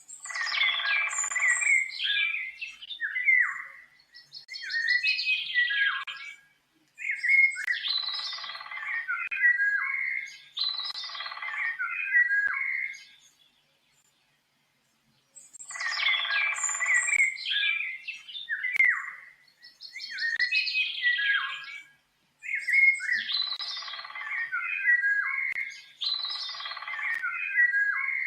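A songbird singing a series of quick, varied phrases, each two to three seconds long with short pauses between them. After a longer pause near the middle, the same run of phrases repeats.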